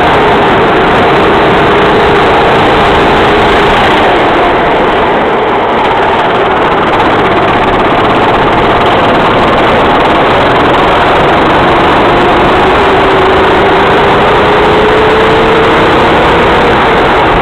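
A racing kart's engine heard loud and close, from on board, running hard at speed. Its pitch eases down over the first few seconds, then climbs steadily near the end as the kart accelerates.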